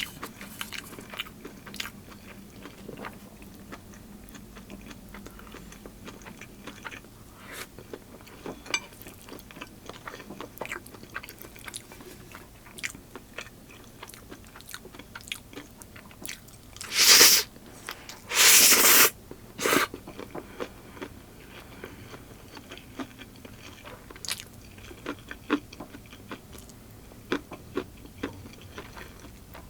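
Close-miked eating: a person chewing and crunching food, with small wet mouth clicks throughout. About seventeen seconds in come three much louder noisy bursts, one short, one about a second long, then another short one.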